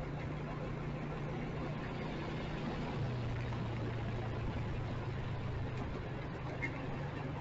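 Motorcycle engine running steadily under a haze of road and wind noise. Its note dips slightly about three seconds in and comes back up a little near the end.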